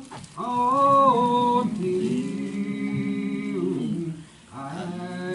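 A slow gospel hymn melody carried by a voice in long held, sliding notes, with a short break about four seconds in.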